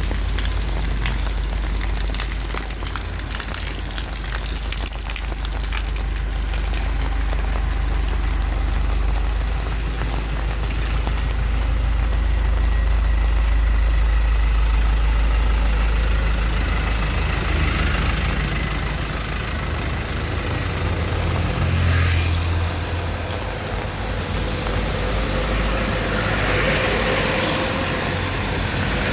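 Heavy rain pouring down, a dense even hiss dotted with sharp drop ticks, over a deep low rumble that is strongest in the first half.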